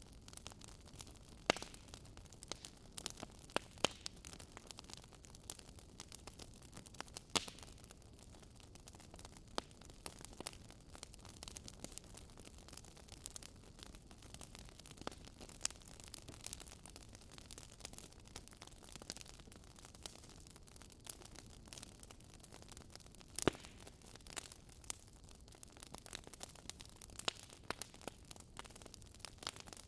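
Campfire burning: wood crackling and popping in irregular sharp snaps over a soft low hiss, with a few louder pops.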